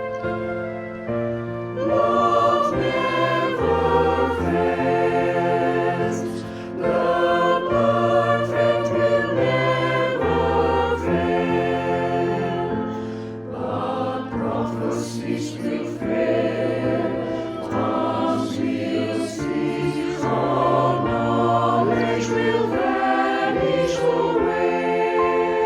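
A choir singing a Christian song in harmony, over a low instrumental accompaniment.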